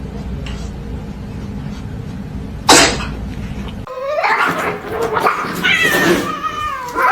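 A cat meowing in drawn-out, wavering calls over the last three seconds. Before that there is a steady low hum and, about two and a half seconds in, one sharp burst of noise.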